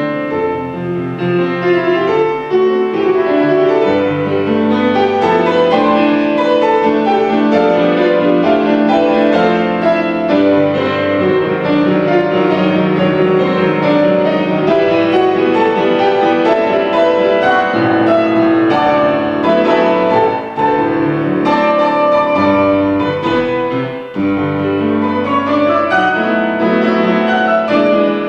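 Church postlude played on piano: a continuous instrumental piece with full chords and a moving melody.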